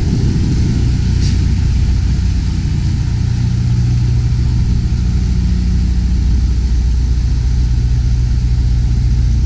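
Semi tractor's diesel engine running steadily at low revs, a deep even hum with no rise or fall in pitch.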